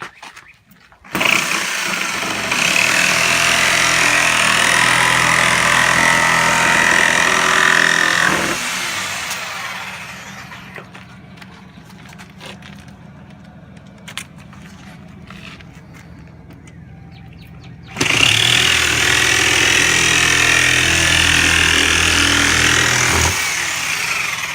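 Reciprocating saw (Sawzall) cutting the nailing fins off a new-construction window frame, in two long cuts: one from about a second in to about eight seconds, trailing off, and another from about eighteen to twenty-three seconds. Between the cuts it is much quieter, with scattered small knocks.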